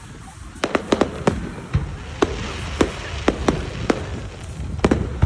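Fireworks bursting in an irregular run of sharp bangs, a few a second, starting about half a second in, over a low rumble.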